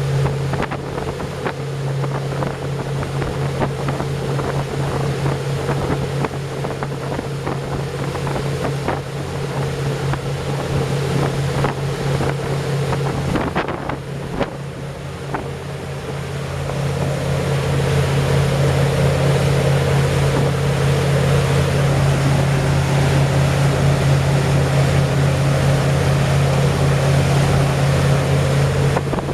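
Engines of a 43-foot motor cruiser running underway with a steady hum, over wind buffeting the microphone and water rushing along the hull. The engine note grows louder a little past halfway.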